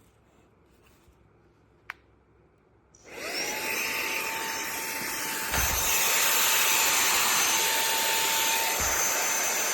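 Minthouz cordless handheld vacuum cleaner switched on about three seconds in: its motor spins up with a rising whine, then runs steadily with a high whine and a rush of air. A low thump about halfway through, after which it runs a little louder.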